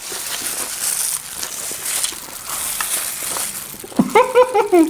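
Crunchy chatpate (spicy puffed-rice snack) being eaten fast, with a dense crackling crunch of chewing and scooping. Near the end a person lets out a short pitched vocal sound that rises and falls.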